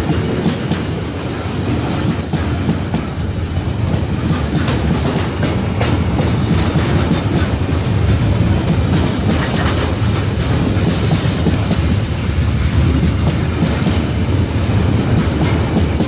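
Long Babaranjang coal train's wagons rolling past close by: a steady rumble of steel wheels on the rails with repeated clacks as the wheelsets go by.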